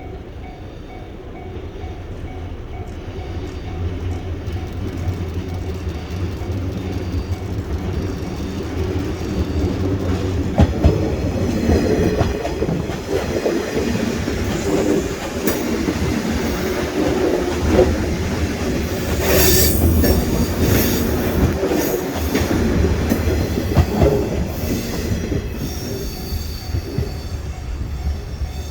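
A 103 series electric train passing over a level crossing: a steady low hum with wheels clattering over the rail joints and crossing, growing louder and then easing off near the end. A level-crossing warning bell is dinging repeatedly at the start.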